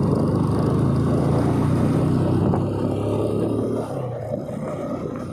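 Motorcycle engine running at riding speed, with wind noise over the microphone; the engine note drops and eases off a little about three seconds in.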